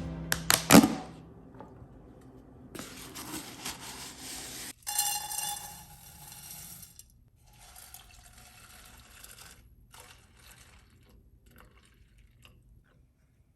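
Kitchen sink sounds: a few sharp clinks of dishes in the first second, then water running from a tap in short spells, the loudest spell about five seconds in.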